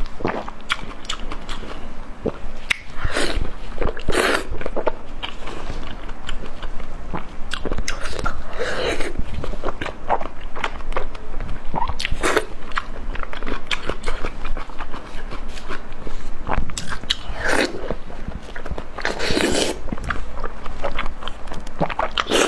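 A person biting and chewing crunchy food close to the microphone: a steady run of small crackles and clicks, with louder crunches every few seconds.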